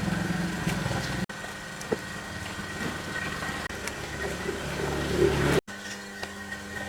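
An engine running steadily, in edited pieces that cut off abruptly about a second in and again near the end.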